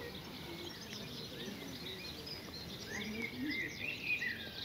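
Several birds chirping and singing in a spring chorus, short quick calls overlapping. They get busier and louder for the last second or so.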